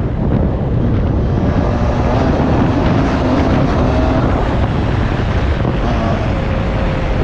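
Beta 125 RR two-stroke dirt bike engine running under way, its pitch rising and falling with the throttle, with wind rushing over the microphone.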